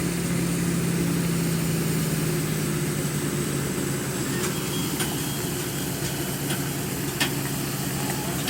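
Tractor engine running steadily while pulling two trailers, its pitch dipping slightly about three seconds in. A few short clicks or knocks come in the second half.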